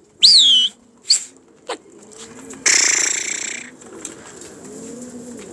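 Domestic pigeons cooing softly throughout, with a loud high arched chirp near the start, a few shorter chirps after it, and a brief rush of noise about three seconds in.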